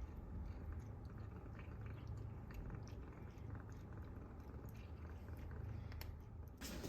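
Cat purring in a low, steady rumble, with faint small clicks over it. A louder rustling noise starts suddenly near the end.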